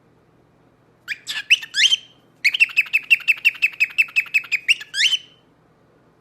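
Pet parrot calling: a few rising chirps about a second in, then a fast run of short repeated chirps, about seven a second, ending in two rising calls.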